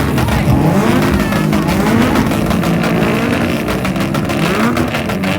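Car engines revving again and again, several overlapping climbs in pitch that fall back between blips.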